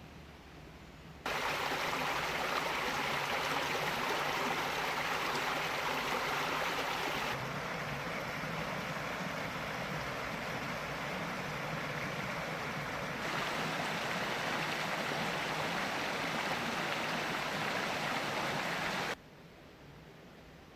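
Cockster Brook's water rushing steadily over its bed. The sound starts abruptly about a second in, changes sharply twice as if cut between shots, and drops back to a faint hiss near the end.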